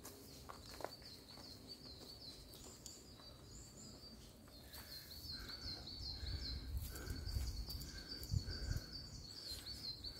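Faint wild birdsong: a quick run of short high chirps repeating throughout, and from about five seconds in a series of about six evenly spaced lower notes.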